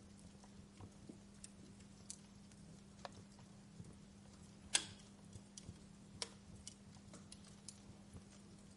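Wood fire crackling quietly in a fireplace: scattered small ticks and pops, with a sharper pop a little past the middle and another about six seconds in, over a faint steady low hum.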